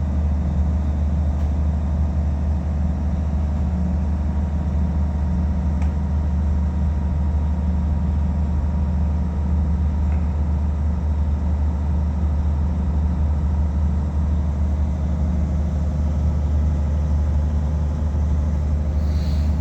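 A steady, loud low hum of a running machine or engine, unchanging throughout.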